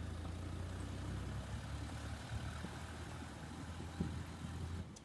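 Heavy diesel engine idling with a steady low hum, cutting off abruptly near the end.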